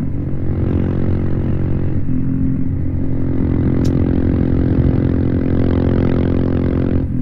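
Royal Enfield Himalayan's single-cylinder engine running on the road through a Devil Pro Evolution full-system exhaust, held on the throttle. About two seconds in it pulls slightly harder, and near the end the note dips briefly as the throttle is rolled off.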